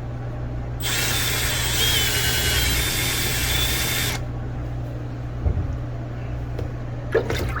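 Milwaukee M12 cordless drill with a tile bit grinding into slate to widen a hole, running for about three seconds from about a second in and then stopping. A steady low hum runs underneath.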